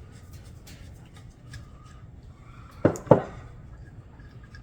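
Two sharp clicks about a quarter second apart, a little past the middle, from a tool or small carburetor part knocking during disassembly on the workbench.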